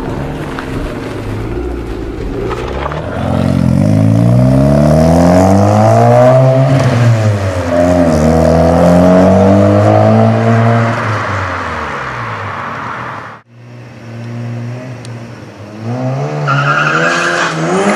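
Mazda RX7 FD3S's turbocharged twin-rotor 13B-REW engine with the exhaust deleted, first running steadily and then revved up and down several times, loud. The sound cuts off abruptly about thirteen seconds in, then the engine picks up again and climbs in revs near the end.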